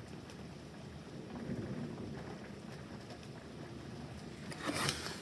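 Thunder rumbling low and steady under rain falling, with a brief clatter near the end.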